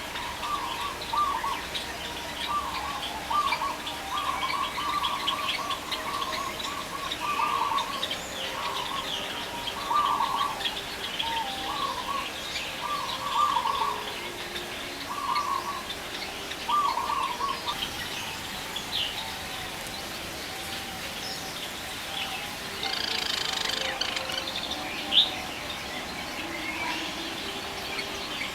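Several birds chirping and calling: quick high chirps throughout, and a lower call repeated about once a second over the first seventeen seconds. A single sharp click about twenty-five seconds in.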